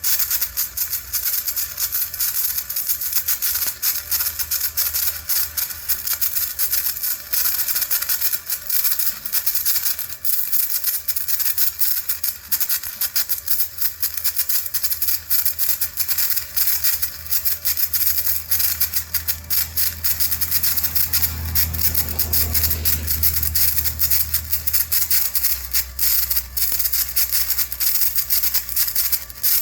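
Stick-welding arc crackling steadily as a flux-coated rod burns. A low hum underneath grows louder for a few seconds about two-thirds of the way through.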